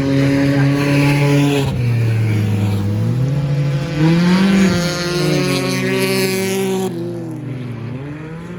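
Several stock car engines running at once, their pitches rising and falling as the cars accelerate and pass, with one engine revving up sharply about four seconds in.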